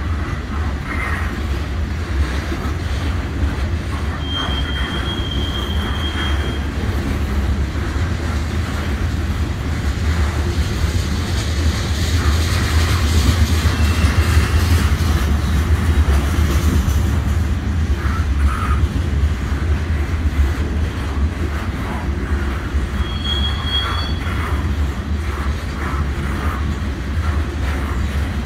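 Covered hopper cars of a freight train rolling past, a steady low rumble of steel wheels on rail with rattling and clicking. The rumble swells about halfway through, and a wheel squeals briefly a few seconds in and again near the end.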